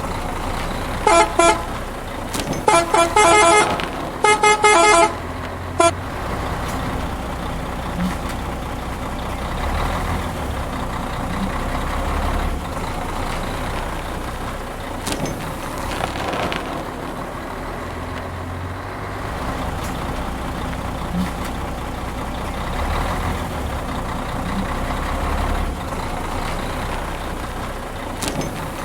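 Truck horn honking in four short blasts within the first six seconds, then a truck engine running with a steady low rumble that swells and eases now and then.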